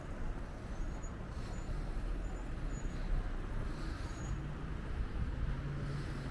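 City street ambience on a windy day: wind rumbling on the microphone over road traffic, with a steady low engine hum in the second half and a few faint high chirps.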